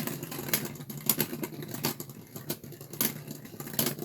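Two Beyblade Burst tops, a 3D-printed Dragoon S and Storm Spriggan, spinning in a plastic stadium: a steady whir with sharp plastic clacks about every half second as they hit each other.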